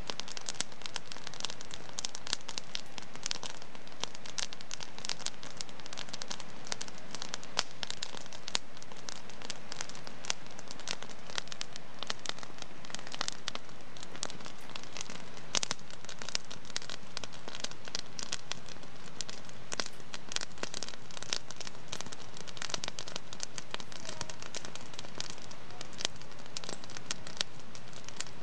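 Wood fire in a fireplace crackling steadily, with dense small crackles and an occasional louder pop.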